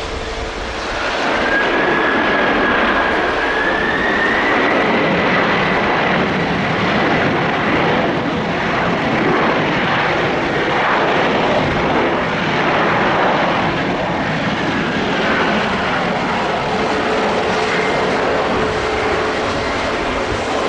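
Jet airliner engines running loud and steady, with a high fan whine that climbs in pitch a couple of seconds in and sinks again later.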